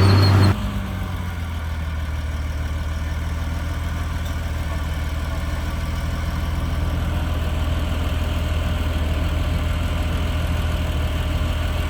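CAT D6R XL bulldozer's diesel engine: the loud working sound cuts down suddenly about half a second in, and the engine then idles steadily.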